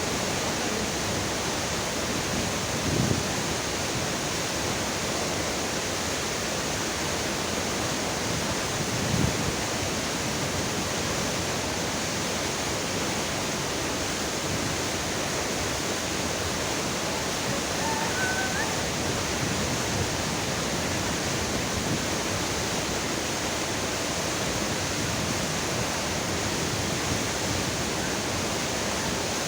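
Waterfall rushing: a steady, dense sound of falling water, with two brief low bumps about three and nine seconds in.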